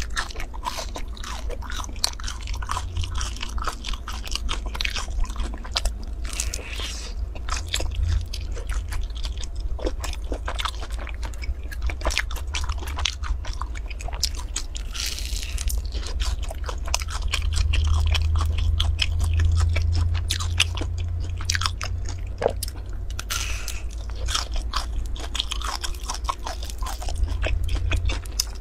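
Close-up eating sounds: a crisp pastry with a soft stretchy filling being bitten and chewed, with many quick crunchy crackles and wet chewing noises. A steady low rumble runs underneath.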